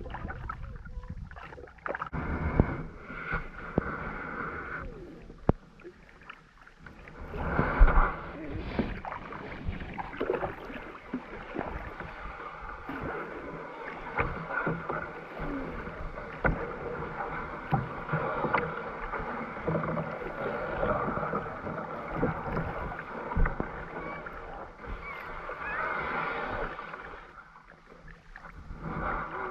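Kayak paddles dipping and splashing in river water, with water gurgling along the hull, and a louder splash about eight seconds in.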